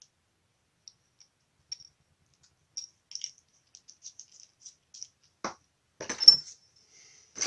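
Small metal parts and hardware clicking faintly as they are sorted through, then a louder clatter of metal pieces knocking together about five and a half seconds in.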